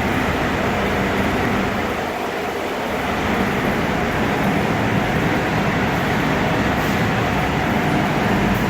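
Steady rushing air of a running paint spray booth, with a spray gun hissing as it lays down clear coat in a narrowed fan pattern.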